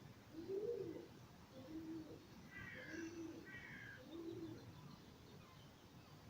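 A bird cooing in a series of low notes, about one a second, with a short burst of higher chirps from another small bird midway.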